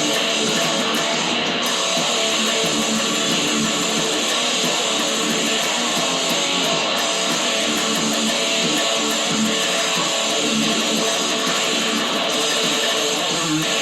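Guitar music: strummed guitar playing continuously at an even level.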